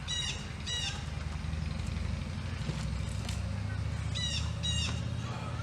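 A bird calling twice in pairs of short squawks, one pair at the start and another about four seconds in, over a steady low hum.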